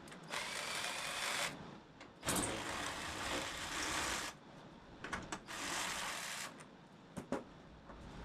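A socket wrench driving a fastener in three runs of rapid mechanical rattling, about one, two and one second long, with a few sharp clicks in between.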